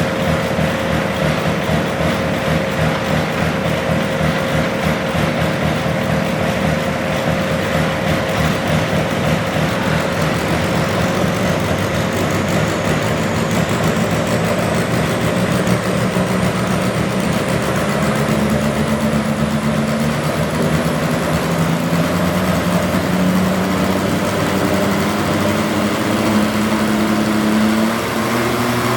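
Modified pulling garden tractor engine running loudly and steadily, its pitch climbing gradually through the second half, with a faint high whine rising alongside.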